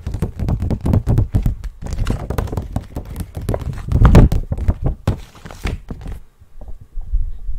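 Close-miked ASMR trigger sounds: rapid, dense clicking and tapping, loudest about four seconds in, changing about six seconds in to softer, low thumps.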